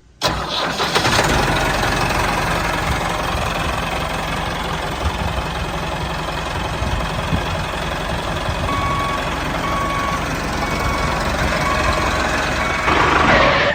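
A vehicle engine running steadily, with a reversing beeper sounding a series of evenly spaced beeps from about two-thirds of the way in.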